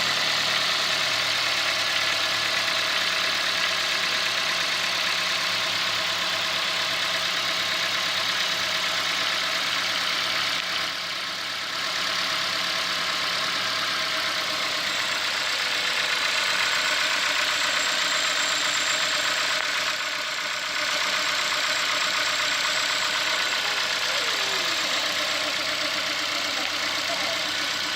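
2016 Ford Fiesta's 1.6-litre inline four-cylinder engine idling steadily soon after start-up, at the warm-up idle that quiets down about 30 seconds after starting. This is the engine's normal running noise, not a fault.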